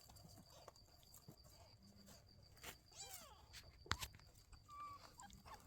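Mostly near silence, with a faint high mew from a newborn kitten about three seconds in and a sharp click just before four seconds.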